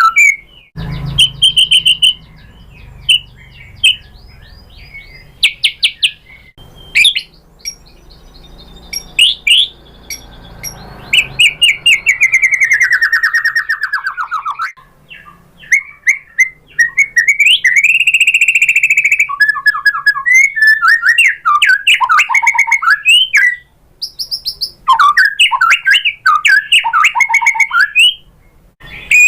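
White-rumped shama singing a loud, varied song of whistled phrases, fast trills and rapid chatter, with short pauses between phrases. About halfway through comes one long phrase that slides down in pitch.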